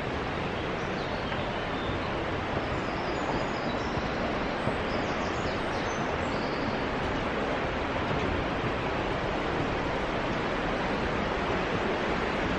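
Fast river water rushing through a narrow rock gorge, a steady, even rush of white water.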